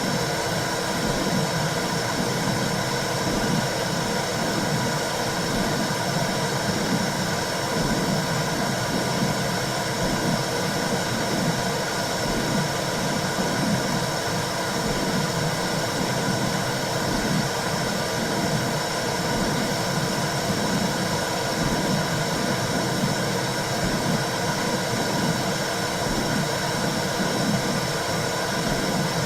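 Womb sound for soothing a baby: a steady, unbroken whooshing noise, heaviest low down, with faint steady tones above it.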